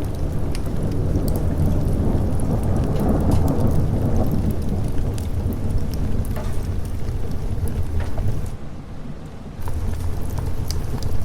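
A long roll of thunder swells and fades over steady rain, with scattered sharp crackles that fit a wood fire. The rumble drops away briefly about eight and a half seconds in, then comes back.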